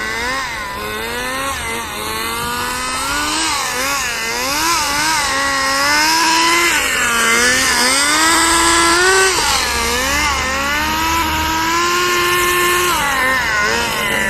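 Small glow (nitro) engine of a rear-wheel-drive RC drift car revving up and down over and over as the car is driven, holding a high steady note for a couple of seconds before dropping near the end. The owner finds its revs oddly high and suspects a slipping clutch and a slight exhaust leak.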